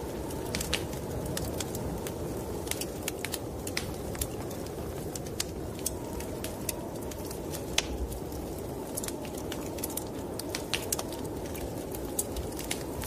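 Wood fire crackling in a fireplace, with irregular sharp pops and snaps, over a steady low rush of snowstorm wind.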